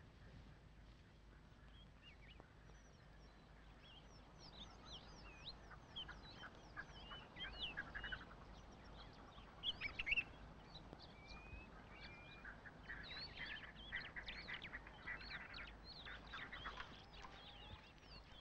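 Faint chorus of birds chirping and calling: many short whistles sweeping up and down. They begin a few seconds in, grow busier, and are loudest in a burst around ten seconds.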